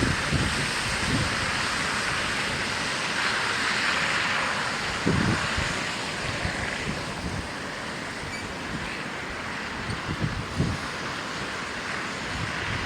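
Gusts of storm wind buffeting the microphone, over a steady rushing hiss that swells about three to five seconds in and then slowly eases.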